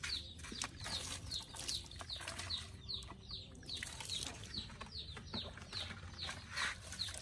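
Birds chirping: many short chirps that each fall in pitch, several a second, overlapping throughout.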